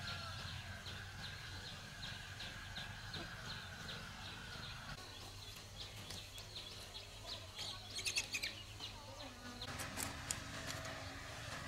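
Birds chirping: short high chirps repeated about three times a second over a low steady hum, with a brief cluster of sharper clicks about eight seconds in.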